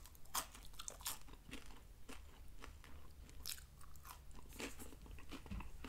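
Faint chewing of sugar-free lemon wafer cookies: small, irregular crunches and mouth clicks. The wafers are a little stale, with not much crunch left.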